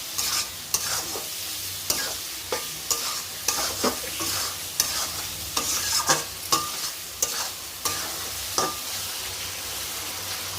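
Spatula stirring and scraping vegetables and nuts frying in oil in a pan, with a steady sizzle. The scrapes come every half second to a second over a low steady hum.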